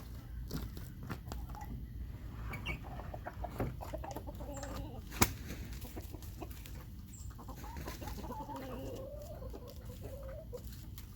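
Backyard chickens clucking, with wavering calls in the second half. A sharp click about five seconds in is the loudest sound.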